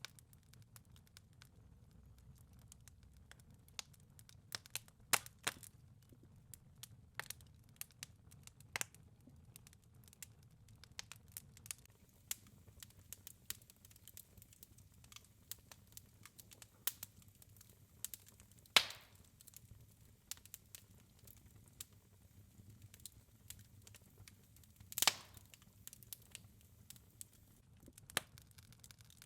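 Wood fire crackling in a fireplace: a steady scatter of small snaps and pops over a low rumble of flame. Two louder pops stand out, one a little past halfway and one near the end.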